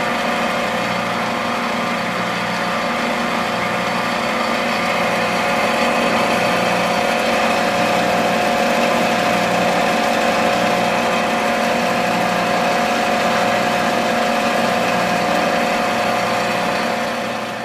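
A small motor running steadily at an even pitch, with a constant mechanical hum.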